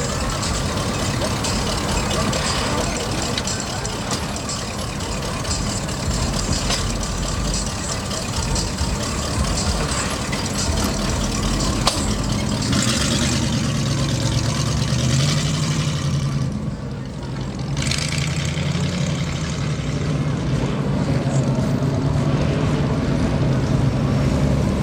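Car engines running at low speed amid a steady noisy street background. A deeper engine hum grows stronger in the second half.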